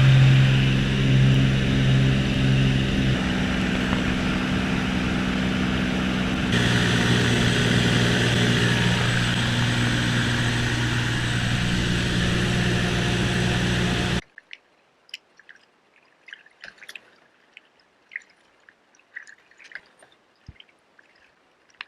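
A steady engine drone for about fourteen seconds, then an abrupt change to quiet water sounds: small drips and light splashes, as from kayak paddles dipping in calm water.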